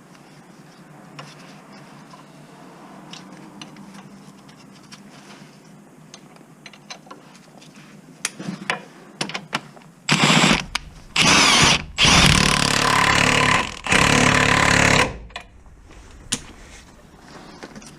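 Cordless impact wrench run in four short bursts, hammering on a bolt, starting about ten seconds in and stopping about five seconds later. Light clicks and taps of tool handling come before and after.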